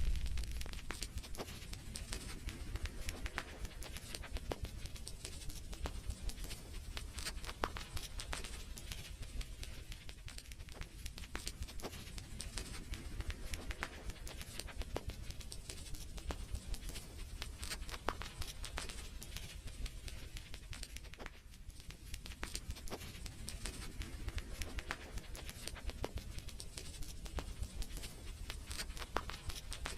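Fire crackling in a fireplace: a continuous scatter of small pops and snaps over a low hiss.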